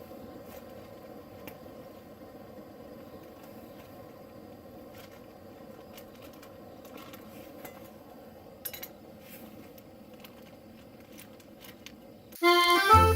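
Steady low hum with scattered faint clicks and a brief clatter about eight and a half seconds in; accordion music starts loudly near the end.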